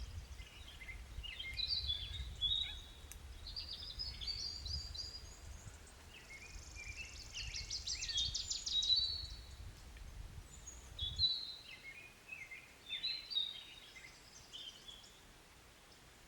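Small songbirds singing: repeated short chirps and rapid trills, overlapping phrases, thinning out toward the end. Under them a low rumble cuts off suddenly about eleven seconds in.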